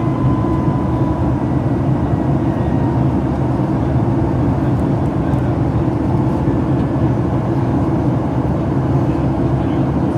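Steady cabin noise of a Boeing 737 MAX 8 in flight: the CFM LEAP-1B engines and the airflow over the fuselage making a constant low rumble. A faint thin tone fades out in the first few seconds.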